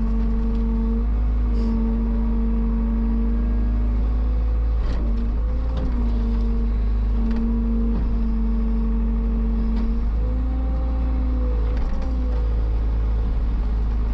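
A heavy machine's engine running steadily under work, with a pitched whine that steps up and down slightly several times and a few faint knocks.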